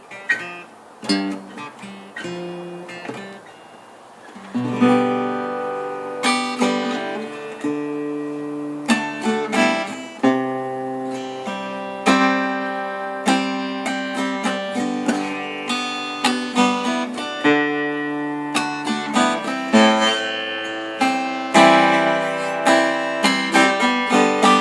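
Acoustic guitar played without singing: a few soft picked notes, then about four seconds in, fuller, louder strummed chords with a steady rhythm.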